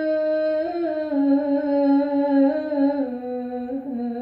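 A woman singing unaccompanied, holding one long drawn-out vowel that steps slowly down in pitch as an ornamented run in an Arabic song.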